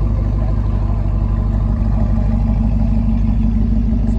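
Chevrolet Camaro SS 1LE's 6.2-litre V8 idling steadily while warming up.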